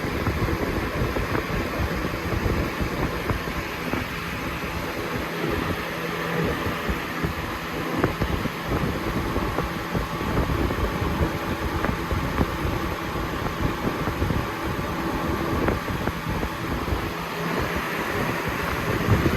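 Lasko Premium box fan (model 3723) running on high: a steady rush of air with a thin whistle over it, the whizzing whistle this fan is known for. Air from the fan buffets the microphone with an uneven low rumble.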